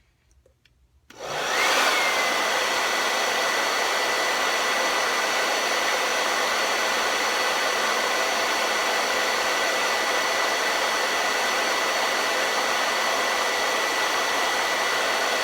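Handheld blow dryer switched on about a second in and running steadily on its low setting: a rush of air with a steady high whine that rises briefly as the motor spins up, then settles.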